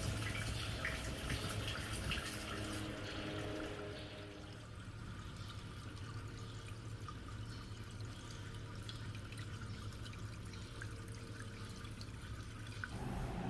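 Water draining out of a manual washing machine's drum through a loosened drain valve into the drain hose: a faint, steady trickling that grows softer after about four seconds as the last of the water runs out.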